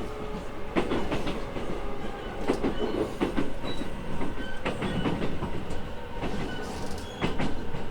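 Running noise inside an E217-series electric train, its wheels clattering irregularly over rail joints above a steady rumble, with faint steady tones underneath.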